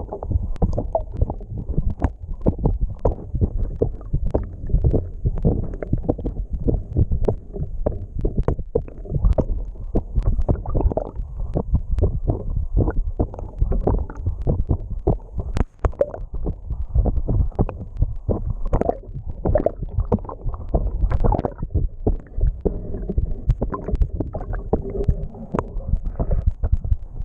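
Water rushing past a submerged camera in its waterproof housing: a continuous low, muffled rumble with frequent small knocks and gurgles.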